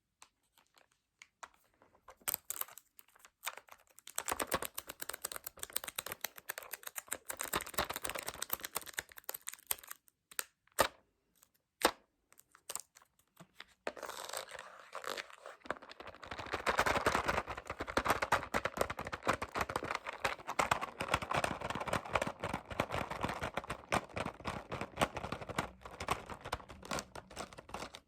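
Fast, close-miked tapping and scratching on objects: dense rapid clicks and scratchy rustles, with a few sharp, louder single taps about ten to twelve seconds in and a denser, fuller run of scratching and tapping in the second half.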